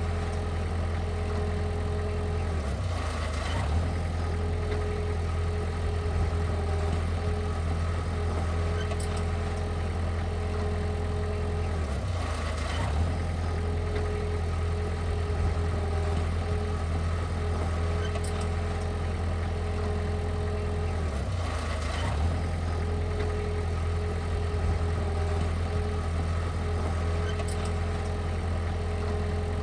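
Heavy earthmoving machine's diesel engine running steadily, with a higher whine over it that drops out briefly, with a short clatter, about every nine seconds.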